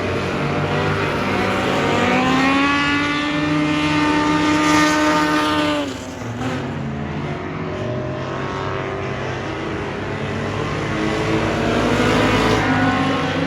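Race car engine running hard under acceleration, its pitch climbing steadily for several seconds, then dropping sharply about six seconds in before building again toward the end.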